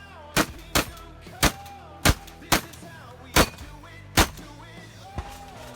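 Pump-action Remington 870 shotgun fired rapidly, seven loud shots in about four seconds with uneven gaps between them, then a fainter report about five seconds in. Music plays underneath.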